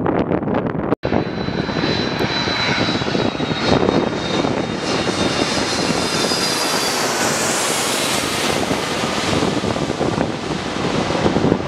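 Jet airliner passing close by on the runway: a loud, steady engine roar with a high whine over it, getting brightest and hissiest around the middle. The sound drops out for an instant about a second in.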